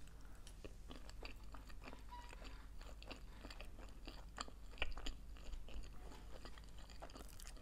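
A person chewing a mouthful of vegetarian sushi roll close to the microphone: soft, moist mouth clicks and light crunches, a little louder about five seconds in.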